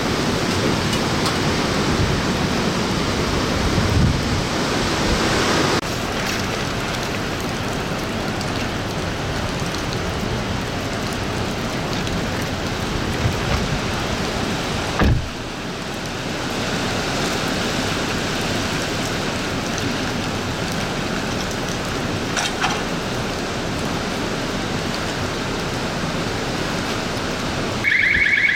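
Hurricane-force wind and driving rain, a dense steady rushing noise, with a couple of low thumps. Just before the end a car alarm starts sounding, a rapid pulsing tone.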